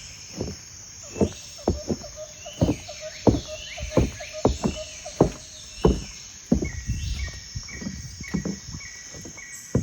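Footsteps crunching through fresh snow, an irregular walking pace of about one or two steps a second that fades out after about six seconds.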